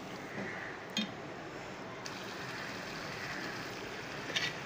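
Mutton karahi sizzling steadily in the pan as it fries down with yogurt, the yogurt's water cooking off. A couple of light clicks sound over it, about a second in and near the end.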